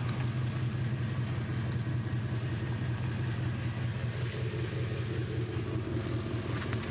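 A 4x4's engine running steadily at low revs as it is crawled slowly over a rock obstacle, with no revving.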